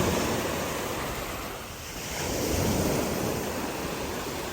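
Sea waves rushing with wind buffeting the microphone, swelling louder twice.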